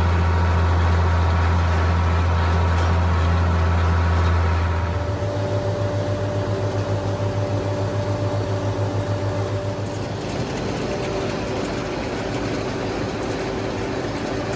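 Tractor engine running with a strong steady low hum; about five seconds in it drops to a quieter, evenly pulsing run that carries on to the end.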